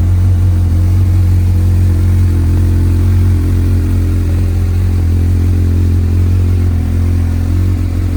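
Honda CBF1000's inline-four engine running steadily, with no revving.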